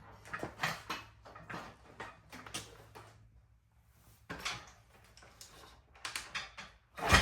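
A 110cc Chinese dirt bike being kick-started on brake cleaner sprayed into the air filter, with no fuel in the tank: irregular mechanical clanks and clicks as the kickstarter is worked, with a pause about three seconds in. One loud bang comes near the end.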